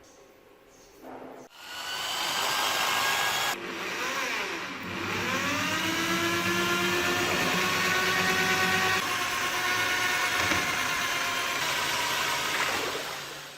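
Electric power tool motor starting and running with a whine. It cuts out about two seconds in, winds down and spins back up with a rising pitch, then runs steadily.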